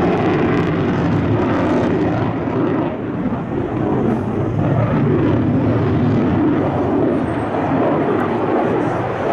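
Aerobatic plane's Lycoming piston engine and propeller running loud and steady.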